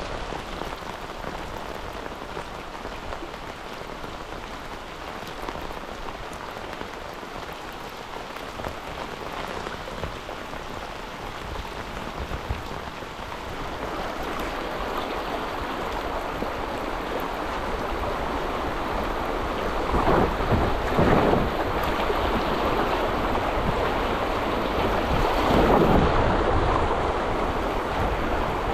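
Rain falling on the river and the kayak, a steady hiss of drops, with rushing water growing louder in the second half and two louder splashing surges about 20 and 25 seconds in.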